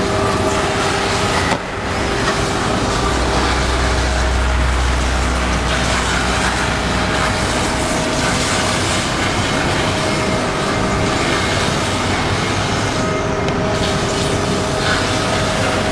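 Veneer edge grinding machine running: a loud, steady grinding whir with a constant hum, briefly dipping about one and a half seconds in and with a deeper rumble for a few seconds in the middle.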